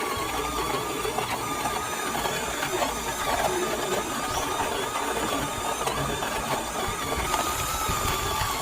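Simplus electric coffee grinder's motor running steadily with a whine, which steps slightly higher about seven seconds in.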